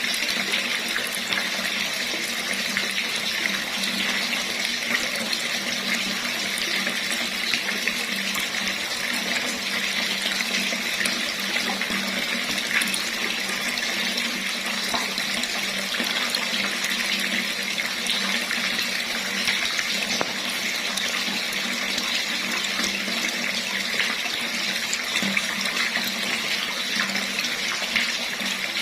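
Water running steadily from a tap, a constant splashing rush with small irregular drips and ticks in it.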